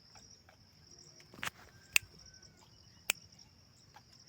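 Insects trilling steadily in a high, even drone. Three sudden sharp clicks or knocks cut through it, the loudest about two seconds in.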